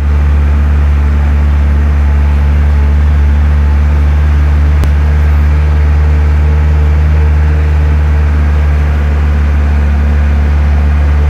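A car's engine and road noise inside the cabin while driving uphill on a highway: a loud, steady low drone that holds the same pitch throughout. There is one brief click about five seconds in.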